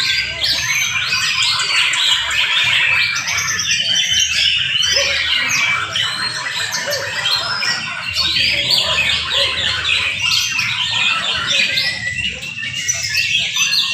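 Several young white-rumped shamas singing at once in a songbird contest: a dense, unbroken tangle of overlapping chirps, whistles and trills.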